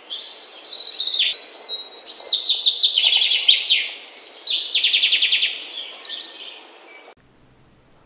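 A songbird singing: fast, high trilled phrases mixed with quick downward-sliding notes, stopping about seven seconds in.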